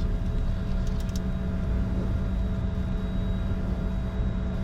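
Flight-deck noise of a Bombardier Challenger 605 rolling along the runway after landing: a steady low rumble with a constant hum underneath.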